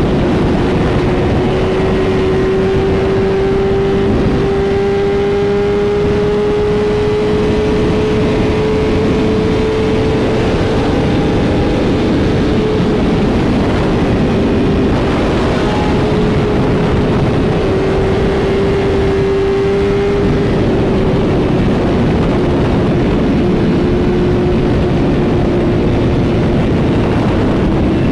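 Motorcycle running at a steady cruising speed, with heavy wind noise on the microphone. Its steady hum slowly climbs in pitch, then drops about two-thirds of the way through.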